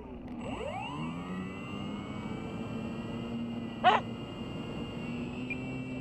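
Electric RC model aircraft motors and propellers whining, their pitch sliding as they pass about a second in and then holding steady. About four seconds in, a dog barks once, short and loud.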